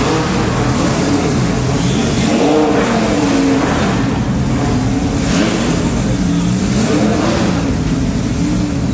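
Lamborghini Super Trofeo race cars' V10 engines at racing speed, a steady rumble whose pitch rises and falls repeatedly with revving and gear changes as the cars pass.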